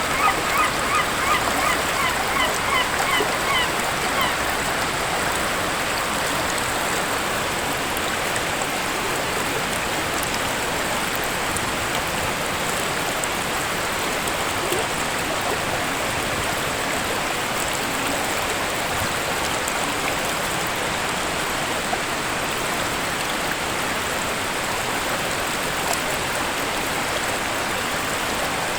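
Waterfall rushing steadily. In the first few seconds a bird calls a rapid run of short, repeated chirps, about three a second.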